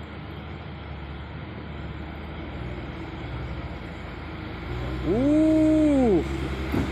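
Hino 500 truck's diesel engine running as it passes. About five seconds in, a horn sounds for about a second, its pitch sliding up, holding, then dropping away.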